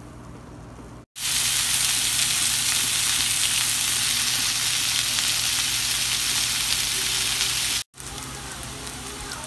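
Sliced onions sizzling in oil in a frying pan. A loud, steady sizzle starts abruptly about a second in and cuts off near the end, giving way to quieter sizzling as a wooden spatula stirs them. Before it there is a low steady hum.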